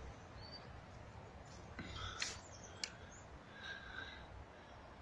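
Faint outdoor woodland ambience with a few short, high bird calls, and two sharp clicks a little after two seconds in.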